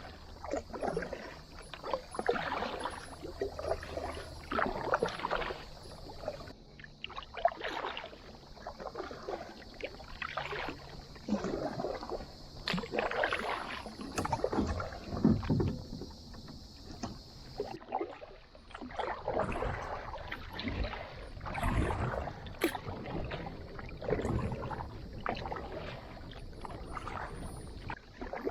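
Kayak paddles dipping and pulling through river water, with repeated, uneven splashing swishes of the strokes.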